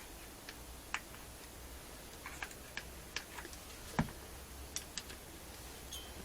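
Scattered small metal clicks and taps from a hydraulic valve lifter being handled and fitted into its bore in the camshaft carrier, with one sharper knock about four seconds in.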